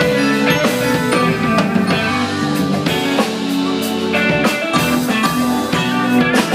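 Live instrumental band of electric guitar, keyboard, electric bass and drum kit playing a steady groove.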